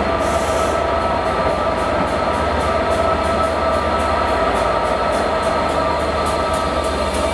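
A locomotive-hauled passenger train moving slowly past, with a diesel locomotive's engine giving a steady hum and whine over a low rumble, and wheels clicking regularly over rail joints.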